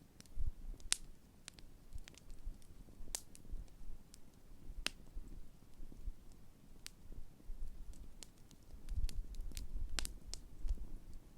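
Large wood campfire burning: irregular sharp pops and snaps from the burning wood over a low rumble of the flames, which swells about nine seconds in.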